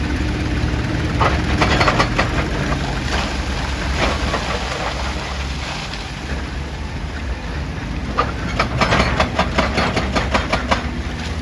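Excavator's diesel engine running steadily, with bursts of rapid clattering and cracking about a second in, briefly again near four seconds, and in a longer run from about eight seconds in.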